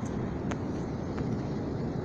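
Storm wind blowing hard across the microphone: a steady low rumbling rush with a few faint clicks, one at the start, one about half a second in and one a little after a second.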